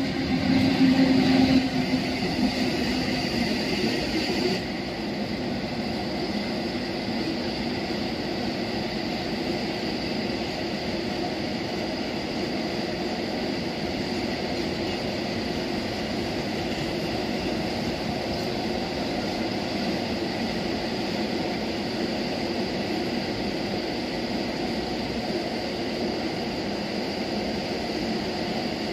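Freight train passing on the rails: a steady hum from the PKP ET22 electric locomotive, louder in the first few seconds, then a long string of ballast hopper wagons rolling by with an even rumble of wheels on track and a faint high whine.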